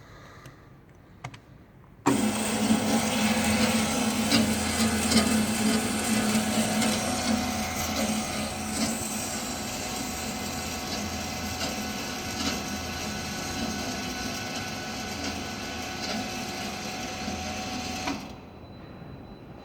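Paldo OK 270C metal-cutting band saw running: the noise comes in suddenly about two seconds in, is loudest over its first few seconds, settles to a steadier level and stops abruptly near the end.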